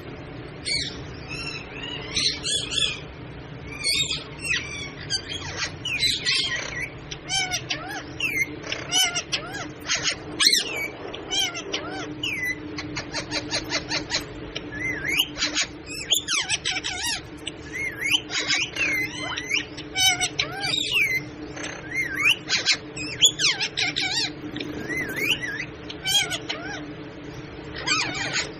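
Pet parrot calling: a busy run of squawks, whistles and short rising and falling chirps, with a fast rattling trill about a second and a half long near the middle.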